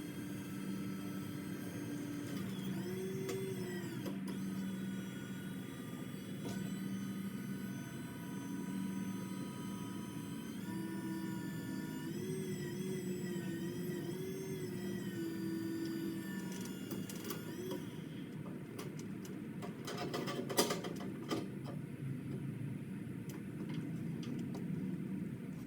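Electric motor whining steadily under varying load, its pitch stepping up and down several times. A burst of sharp cracks and clicks comes about 20 seconds in.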